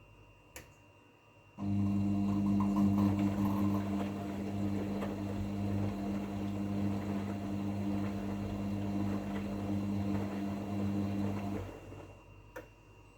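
LERAN WMS 27106 WD2 washing machine humming steadily with a rushing noise for about ten seconds, then cutting off; a faint click comes shortly before it starts and another after it stops.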